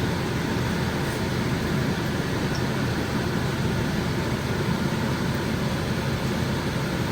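Steady fan-like whir with an even hiss, unchanging throughout.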